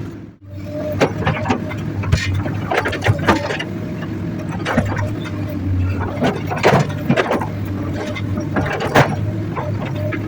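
Hydraulic excavator's diesel engine running steadily, with repeated sharp knocks and scrapes as it works rock and earth.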